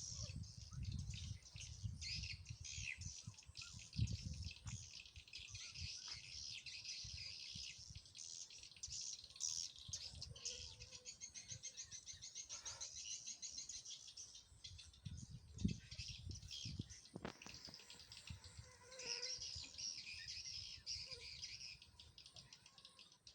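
Swiftlets' high chirping and twittering calls, many overlapping without a break, with a fast even trill about halfway through.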